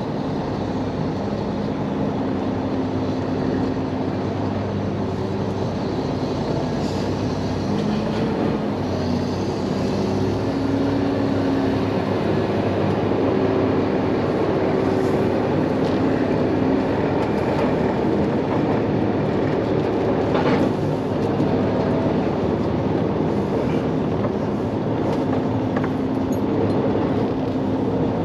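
Diesel semi truck running at low speed over rough, muddy ground, its engine note steady with a few knocks and rattles from the flatbed rig along the way.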